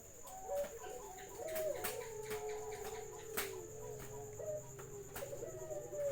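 Several doves cooing over one another: long, slightly falling low coos overlapped by shorter, higher notes, repeating throughout.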